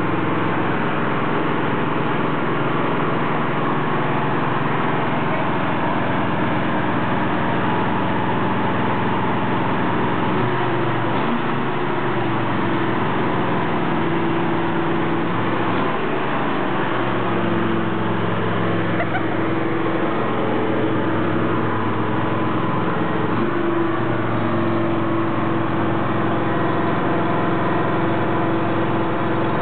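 Pontiac GTO V8 idling through a new Pypes Street-Pro exhaust, a steady low rumble whose pitch dips and recovers a few times. The idle has not yet been adjusted after the exhaust install.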